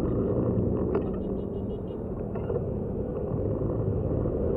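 Motorcycle engine running steadily during a ride, a continuous low rumble with road noise.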